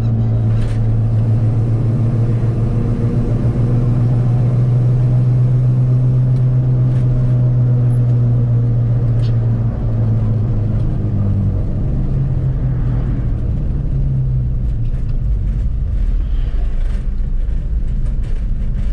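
Cab interior of a lifted 1985 Chevy K10 cruising in fifth gear at low revs: the fuel-injected LS V8 with dual Flowmaster exhausts holds a steady low drone over the loud hum of 36-inch Super Swamper mud tyres. The engine drone eases off somewhat about halfway through.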